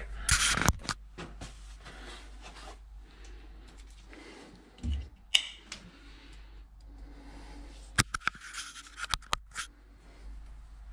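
Scattered clicks, rustles and scrapes of handling, with a quick run of sharp clicks about eight seconds in.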